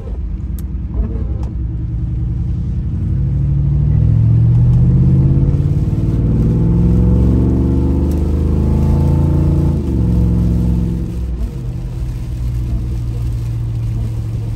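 Brabus-tuned Mercedes G63 AMG V8, heard from inside the cabin, accelerating with its pitch climbing for several seconds. Around ten seconds in the pitch drops sharply as it shifts up, then the engine pulls on steadily.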